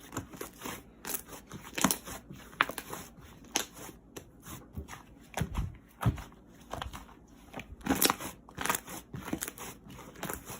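Irregular sharp clicks and crinkling handling noises, with a few low thumps a little past the middle.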